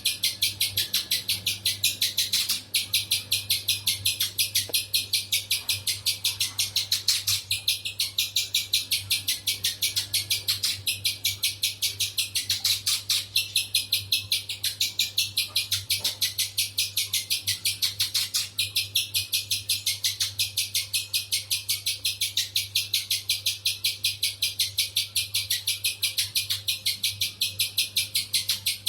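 A spiderhunter calling with a fast, even string of high, harsh notes, about five a second, over a steady low electrical hum.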